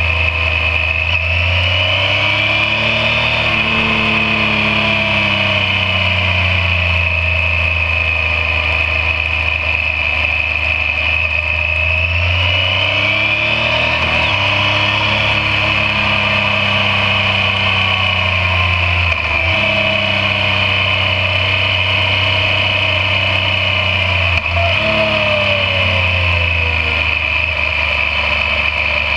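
Yamaha MT-09's three-cylinder engine running under way, its revs rising and falling repeatedly through the bends. Its note breaks off briefly twice in the second half, and a steady high whine runs underneath.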